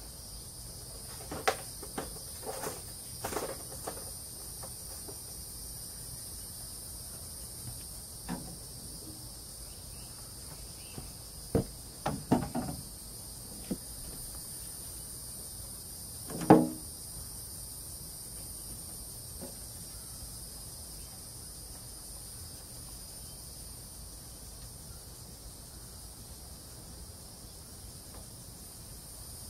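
A steady high insect drone, with scattered knocks and clanks from hand work on the airboat's propeller hub; the loudest knock, with a brief ring, comes about halfway through.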